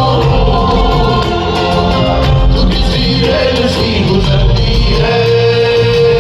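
Band music with singing voices: a rock band's song.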